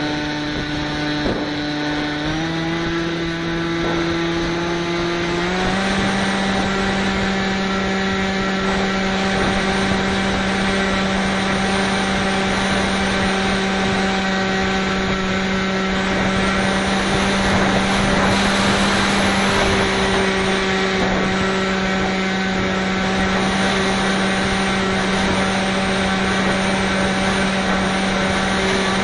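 Bixler 2 RC plane's electric motor and propeller whining at a steady pitch, stepping up twice in the first few seconds as the throttle is raised. Heavy wind rushes across the microphone, gusting louder about two-thirds of the way in.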